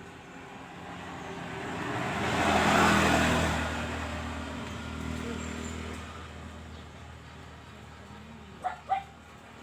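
A motor vehicle drives past, its engine and road noise swelling to a peak about three seconds in and then fading away. Near the end a dog barks twice in quick succession.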